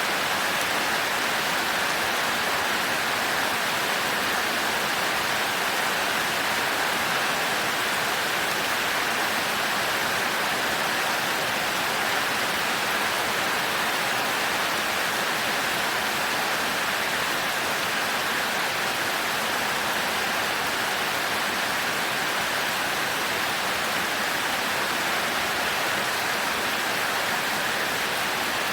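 Heavy rain pouring steadily, an even hiss that neither swells nor breaks, with no thunder in it.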